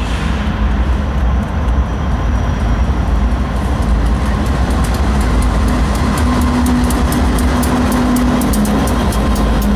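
Freight train rolling past with a steady low rumble; from a few seconds in, its wheels click rapidly and evenly over the rail joints.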